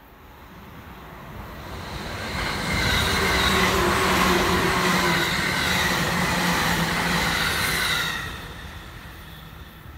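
Electric limited-express train passing at speed. Its sound builds to a peak in the middle seconds, a steady whine over the rumble of the wheels on the rails, then fades away as it leaves.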